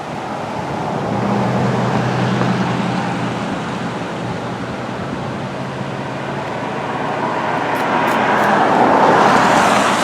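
Car driving past on the road: tyre noise and a low engine hum swell about two seconds in and fade, then rise again near the end.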